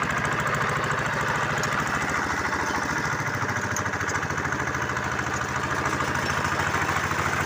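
Engine of a bore well drilling machine running steadily at an even speed, with a rapid, regular pulsing.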